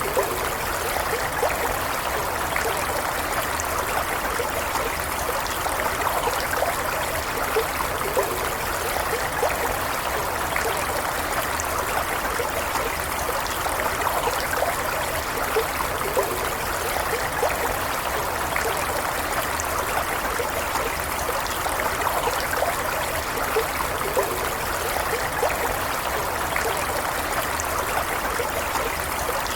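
A small stream of running water, flowing steadily with a close trickling and burbling.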